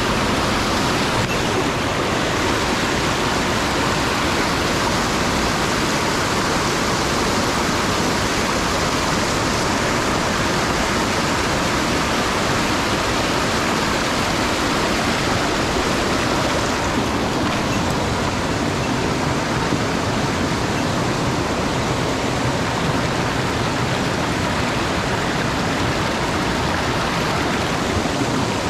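Rushing water of a mountain stream, a steady, even noise.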